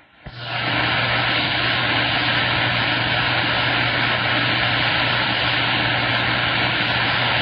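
CB radio receiver static: a steady, loud hiss with a low hum and a faint thin whistle, coming in suddenly just after the start.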